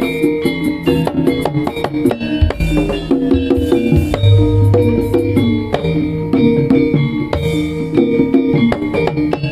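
Instrumental jaranan music played live: hand drums struck in quick, busy strokes over a running melody of pitched percussion, with no singing.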